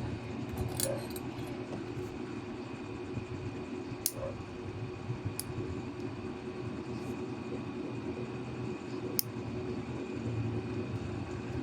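Steady low background hum with four sharp clicks scattered through.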